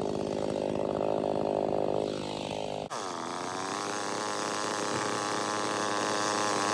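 Two-stroke chainsaw engine running at steady speed. About three seconds in, the sound changes abruptly to another steady engine note that slowly grows louder.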